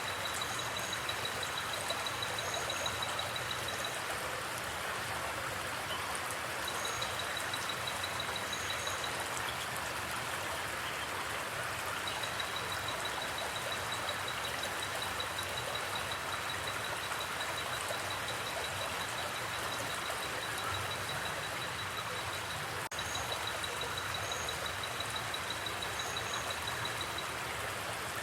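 Forest creek or river flowing, a steady even rush of water. Over it a thin, high, rapidly pulsing tone comes and goes in long stretches, with short paired higher notes here and there.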